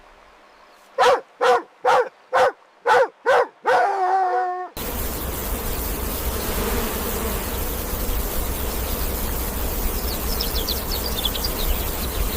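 A dog barking six times in quick succession, about two barks a second, then one longer drawn-out call. A steady hiss then sets in suddenly and runs on.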